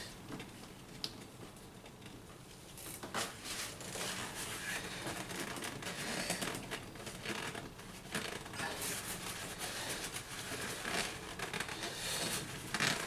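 Paper towel rustling and crinkling as hands are wiped dry, with scattered short handling noises.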